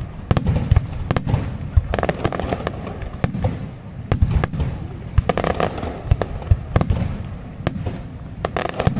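Aerial fireworks display: a rapid, continual barrage of shell bursts, with many sharp cracks over deep booms.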